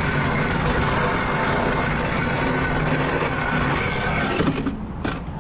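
Motorcycle engine running at a steady speed, with a level, unchanging pitch, fading out about four and a half seconds in.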